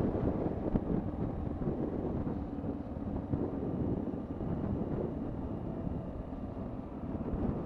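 Honda XR650L single-cylinder dual-sport motorcycle engine running steadily while riding, mixed with wind buffeting the microphone.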